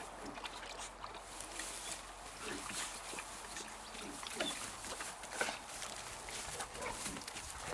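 A dog making several short, quiet noises, among scattered small clicks and rustling.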